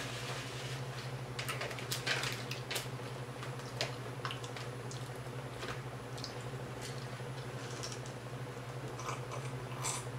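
Close-up eating of crispy fried tilapia: irregular crunches and small wet mouth clicks while chewing, over a steady low hum.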